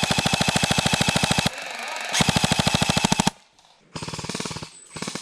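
Airsoft electric rifle firing full-auto: a long burst at the start, another about two seconds in, then a quieter short burst near the end, each a fast, even mechanical rattle.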